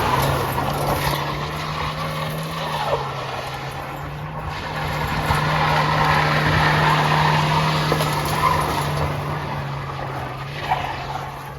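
Vehicle engine running at steady revs while its tyres skid and slide in a drift, the tyre noise swelling and easing.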